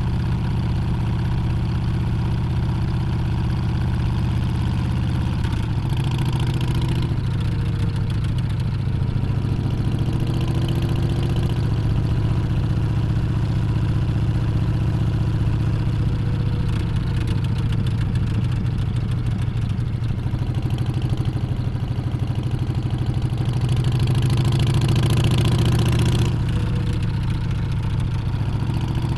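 Harley-Davidson Street Bob's Milwaukee-Eight 114 V-twin engine running steadily under way. Its note rises and falls gently a few times with the throttle.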